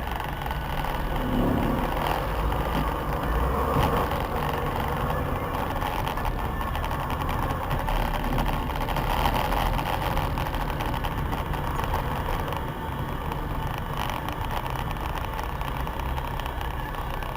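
Steady engine and road noise of a vehicle driving in dense city traffic, heard through a dash cam.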